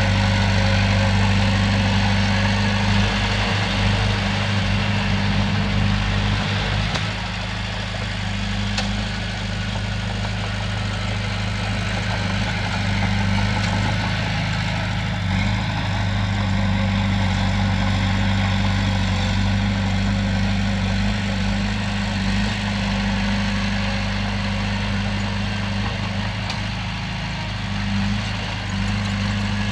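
Komatsu bulldozer's diesel engine running steadily with a deep, even hum, easing slightly about seven seconds in.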